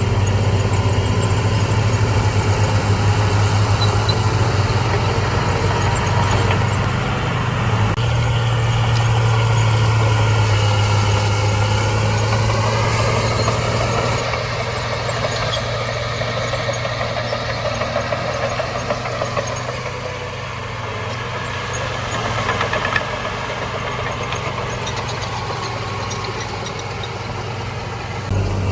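Large diesel engine of heavy earthmoving machinery running with a steady low drone. The pitch wavers around the middle, and the engine runs a little quieter for the second half.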